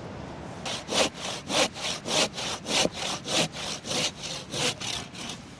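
Hand saw cutting through wood, about ten even back-and-forth strokes with a rasping sound, starting about a second in and stopping near the end.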